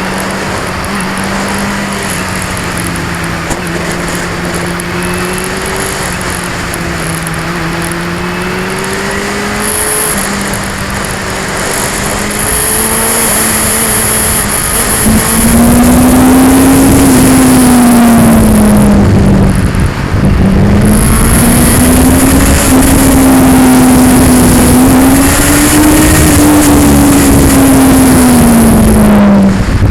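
2002 Yamaha R6's inline-four engine on the road, its revs rising and falling as it is ridden through a run of curves, getting louder and higher-revving about halfway through, with a brief drop in revs a few seconds later. Wind rush and action-camera vibration noise run under it.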